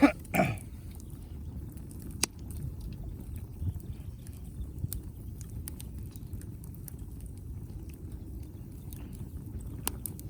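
Wood fire crackling, with scattered sharp pops, the loudest about two seconds in, over a low steady rumble.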